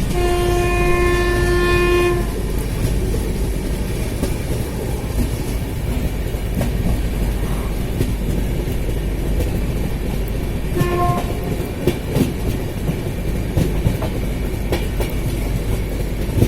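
Passenger train running on the rails with a steady rumble and wheel clicks. A train horn sounds one long blast of about two seconds at the start and a short toot about eleven seconds in.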